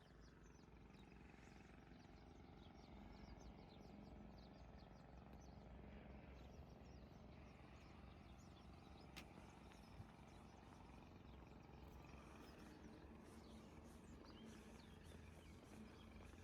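Faint chirping of small birds, many quick high chirps coming and going, over a steady low background hum.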